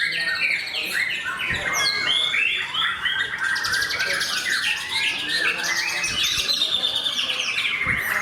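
White-rumped shamas (murai batu) singing without pause: quick, varied chirps and whistled phrases from several birds at once, overlapping densely.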